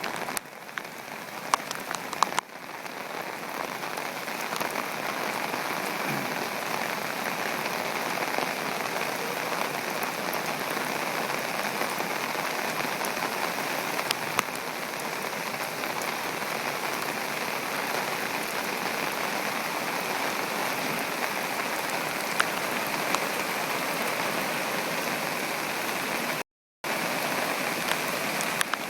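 Heavy typhoon rain falling steadily, a dense hiss with scattered sharp drop hits. The sound cuts out briefly near the end.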